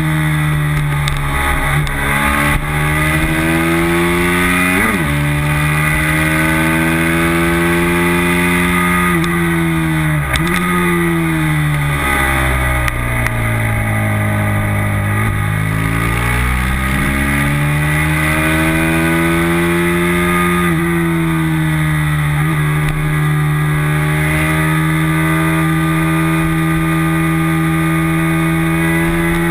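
Race motorcycle engine heard from on the bike, running hard at high revs under a constant rush of wind. About nine seconds in the revs fall steadily as the bike leans through a corner, bottoming out around fourteen seconds, then climb back and hold high again. There is a brief sharp rev blip about five seconds in.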